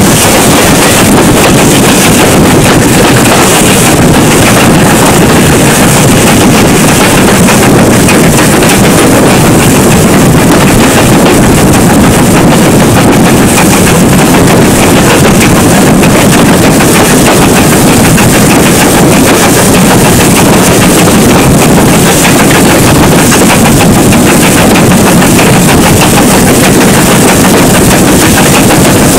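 Steam train running at close range, its sound overloading the recording into a continuous loud, dense crackle.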